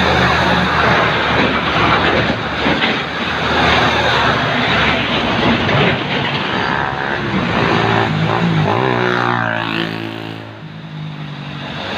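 Heavy MAN TGS truck on the move: the diesel engine runs steadily under loud road and wind noise. About nine seconds in the engine note sweeps downward and the sound briefly drops, then the engine picks up again.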